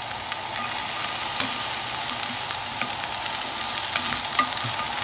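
Sliced green onion and chilli sizzling in foaming butter and olive oil in a non-stick frying pan, a steady hiss with scattered small pops, stirred with chopsticks.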